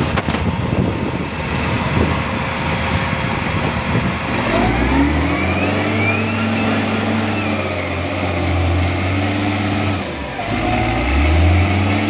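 Loader's diesel engine running, revving up about four seconds in and holding at high revs, then dropping briefly near the end and revving up again.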